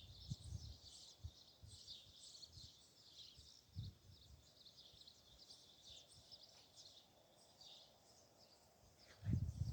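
Many small birds chirping in a continuous, busy chorus. A few low thumps break in, and a burst of low rumbling starts near the end.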